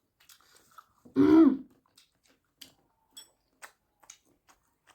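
A person clears their throat once, loudly, about a second in, followed by faint scattered eating clicks.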